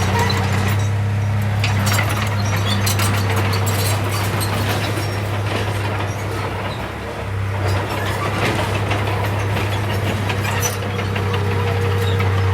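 Heavy diesel engine of earthmoving machinery running steadily at constant speed, with scattered clanks and rattles over it.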